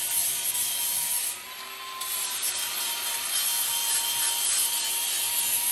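A handheld abrasive power tool runs with a steady motor whine, its abrasive grinding hiss against the workpiece. It eases off the work for about half a second near one and a half seconds in, then bears down again.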